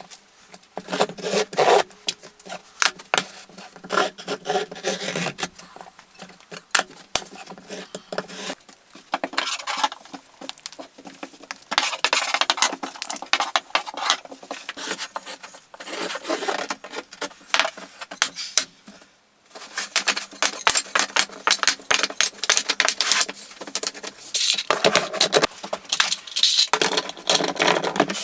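Irregular scraping, rubbing and light knocks of hand work on wood with hand tools, over a faint steady hum.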